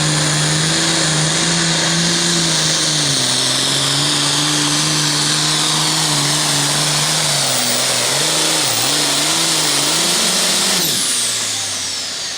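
Super farm pulling tractor's turbocharged diesel engine running flat out under load, with a loud hiss over the engine note. The engine speed sags and wavers near the end of the run, then the engine drops off about eleven seconds in with a falling whine.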